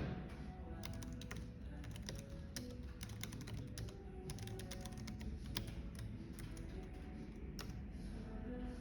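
Typing on a computer keyboard: a steady, irregular run of quick key clicks over a low background hum.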